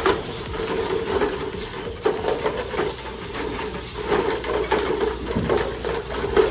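Electric motors and gear trains of a radio-controlled VEX competition robot running as it drives and moves its cube stack: a mid-pitched whine that swells and fades.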